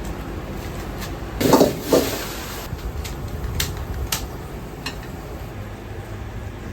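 Ramen shop kitchen work: dishes and utensils clattering, with two loud knocks about one and a half and two seconds in, then a few sharp clicks, over a steady low hum.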